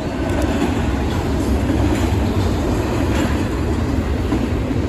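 Intermodal freight train rolling past, a steady heavy rumble of steel wheels on rail.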